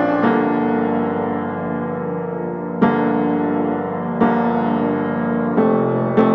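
Background piano music: soft sustained chords, with new chords struck about every one to one and a half seconds.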